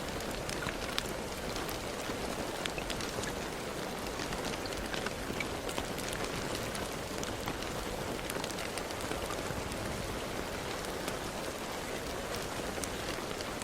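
Steady rain falling, with a constant wash of rain noise and many separate drops pattering sharply on a surface.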